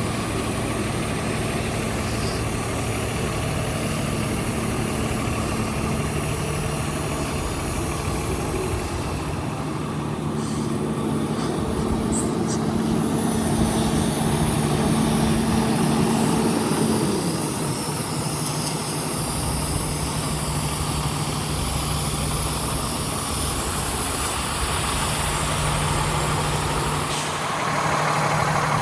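Diesel engine of a 2013 Freightliner 108SD heavy truck idling steadily. Its speed is held a little higher for a while, then drops back to idle about two-thirds of the way through.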